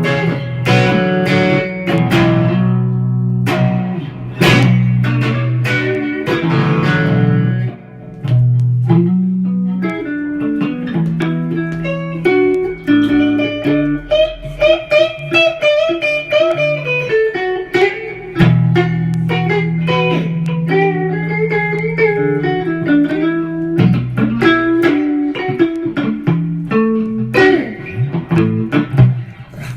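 Electric guitar playing a blues riff, mixing held low notes and chords with quick single-note runs.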